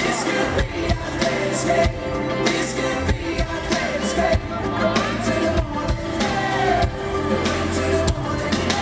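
Live pop-rock band playing, with drums keeping a steady beat, a bass line and a voice singing over it.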